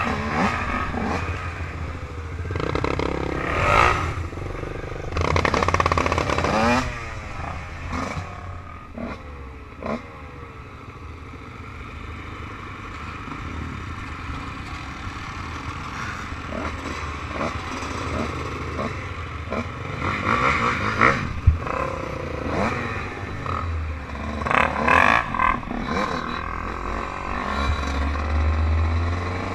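Off-road quad and dirt-bike engines revving, their pitch rising and falling with the throttle. The loudest bursts come in the first several seconds and again about twenty to twenty-six seconds in, with a quieter run of engine noise between.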